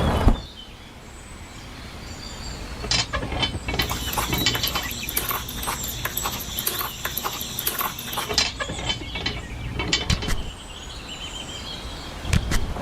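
A small mechanism clicking and rattling, densest between about three and eight seconds in, with scattered clicks after.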